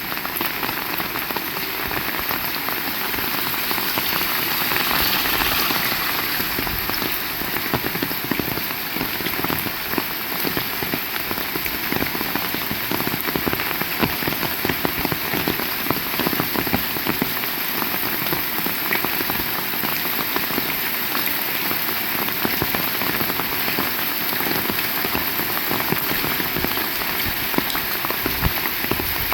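Heavy rain falling steadily: a dense, even hiss with a close patter of individual drops.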